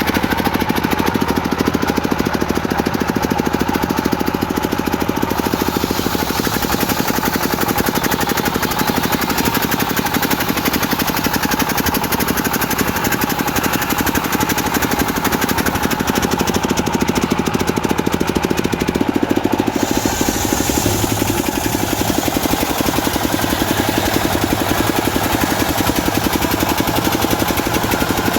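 Diesel engine driving a homemade circular saw rig, running steadily and loudly. The sound changes about twenty seconds in.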